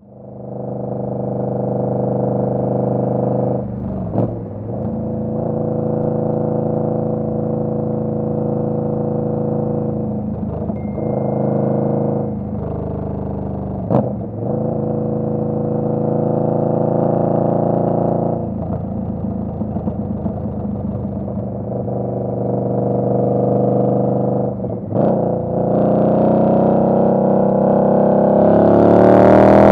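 Indian Scout Bobber's V-twin engine running under way, its note dipping briefly several times and climbing in pitch near the end as it accelerates.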